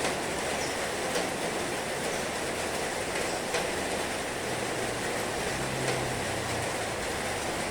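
Heavy rain falling as a steady, even hiss, with a couple of sharper drop taps.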